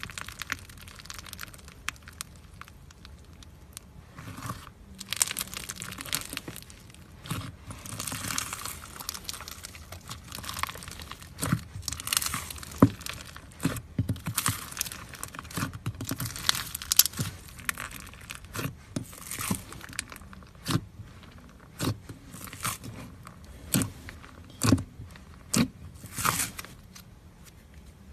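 Foam-bead slime (floam) being squeezed and worked by hand, giving crunchy crackling with many sharp pops at irregular intervals that grow more frequent and louder after the first few seconds.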